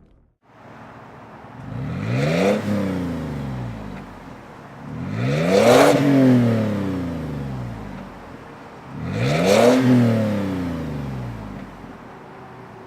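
Toyota 4Runner 4.0 L V6 through a Gibson single exhaust with a stainless straight-through muffler, revved three times from idle, each rev climbing and dropping back to idle. The exhaust has a deeper tone than stock.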